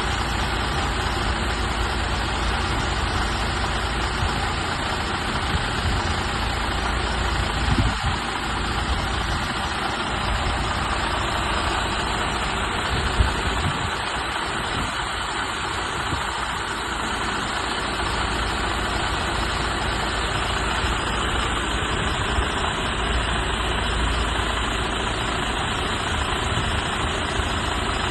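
Setra S431DT double-decker coach's diesel engine idling steadily, with a short swell about eight seconds in and a single sharp click near the middle.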